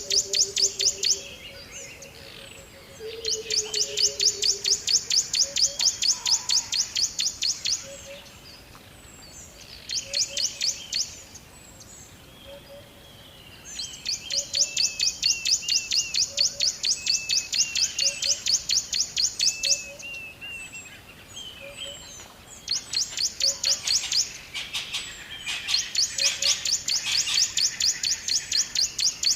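Birds singing: loud, high, rapid trills of evenly repeated chirps, about seven notes a second, each trill lasting several seconds before a pause, with other birds chirping in between. A lower falling call sounds twice in the first few seconds.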